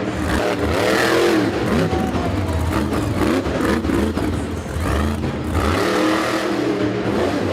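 Monster truck engine revving, its pitch rising and falling again and again.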